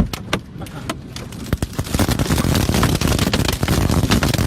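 Tornado wind with many sharp clicks and knocks of flying debris striking, thickening into a louder, dense din about two seconds in.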